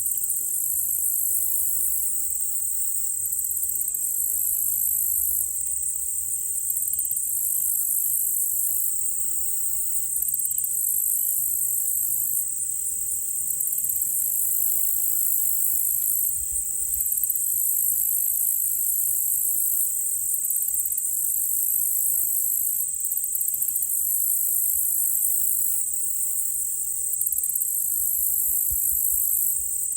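Steady, high-pitched chorus of crickets and other insects trilling continuously. A faint, evenly repeated note, about two a second, sounds in the middle for a few seconds.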